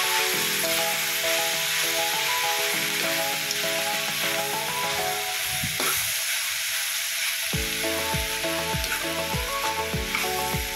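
Shredded cabbage and carrots sizzling in a hot wok as they are stirred and tossed with a spatula. Background music plays underneath, picking up a steady beat about two-thirds of the way through.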